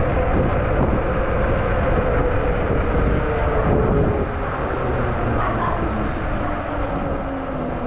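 Wind rushing over the microphone of a moving e-bike, a dense steady rumble, with a thin whine that slides slowly down in pitch.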